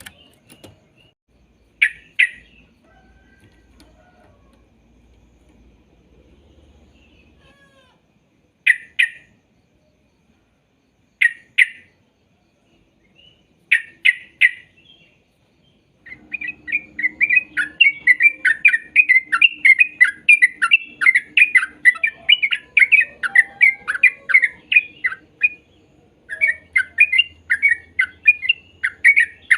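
Yellow-vented bulbul (trucuk) singing: a few short, separate bubbly phrases, then from about halfway in a long, rapid run of chattering notes that pauses briefly and starts again near the end.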